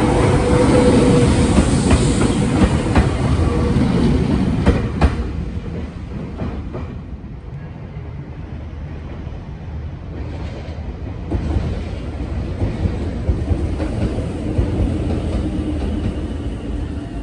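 Meitetsu electric train cars rolling past, wheels clacking over rail joints, fading out after about five seconds. From about eleven seconds in, a second Meitetsu electric train pulls away from the platform and its running sound builds.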